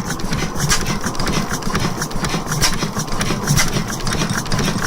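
1896 Crossley Otto-cycle stationary gas engine running slowly, a steady rumble with a sharp beat about once a second, while it is fed too much gas.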